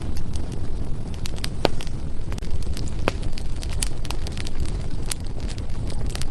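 Firewood burning in a fireplace: irregular sharp crackles and pops, a dozen or so, a few of them loud, over a steady low rumble.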